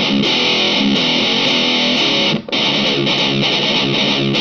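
High-gain, heavily distorted electric guitar playing chugging riffs through a Nux MG200 modelling amp with a V30 4x12 cabinet simulation, heard from a hi-fi soundbar. The playing stops briefly about two and a half seconds in, then carries on.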